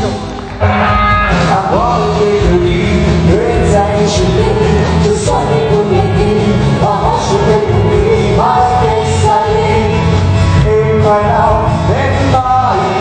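Live band playing a pop song with singing over a steady bass and beat; the music drops briefly about half a second in, then comes back in full.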